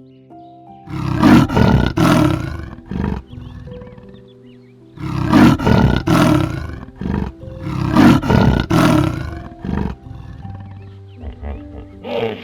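Big cat roaring in three loud bouts of two or three roars each, about 1, 5 and 8 seconds in, over background music with held notes.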